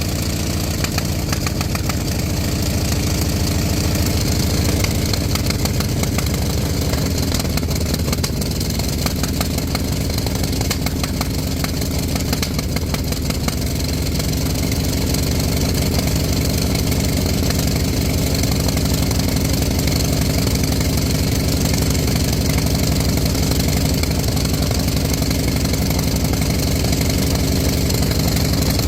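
Radial engine running steadily, its speed easing down a little about seven seconds in and then holding at an even idle.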